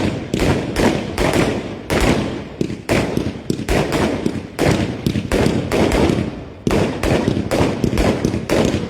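Fireworks going off: a dense, irregular run of sharp bangs, several a second, each trailing off in an echo.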